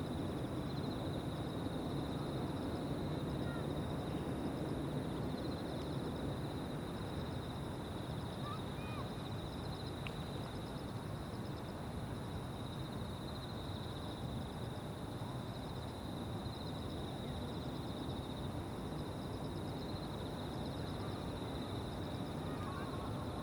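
Evening chorus of insects: several steady, pulsing trills layered at different pitches, over a low, continuous rumble.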